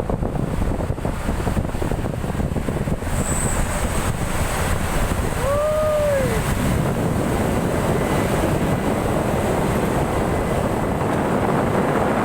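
Steady rush of a truck on the move, with wind buffeting the microphone. About halfway through, a brief tone rises and then falls.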